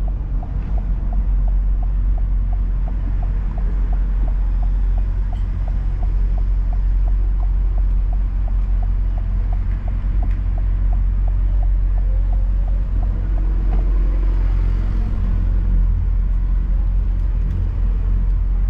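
Car driving, heard from inside the cabin: steady low road and engine rumble. A regular ticking runs at about two to three ticks a second and stops about fourteen seconds in.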